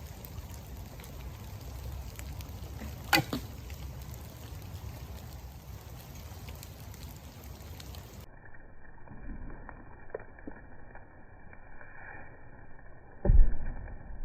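A bow shot with a wood arrow: one sharp snap of the string about three seconds in, over a steady hiss of rain. Near the end comes a louder, dull low thump.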